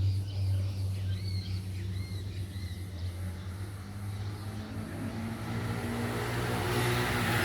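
Engine and propeller drone of an Embraer T-27 Tucano turboprop trainer: a steady low hum, with a rushing hiss that grows louder over the last couple of seconds as the aircraft comes closer.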